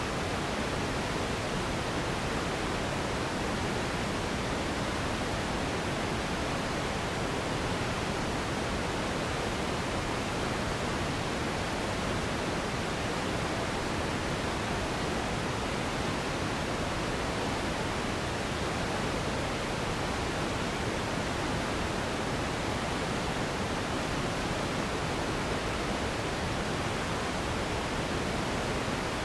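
Steady synthetic noise of the kind played for sleep: an even, unchanging hiss with its weight in the low and middle range.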